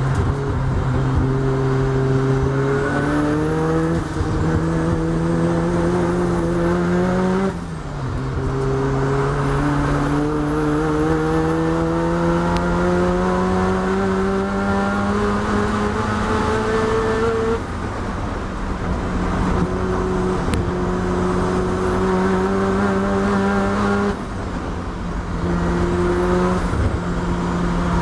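Racing Mazda RX-7's rotary engine at full throttle, heard from inside the cabin. Its pitch climbs steadily through long pulls and falls back sharply about four times at the gear changes.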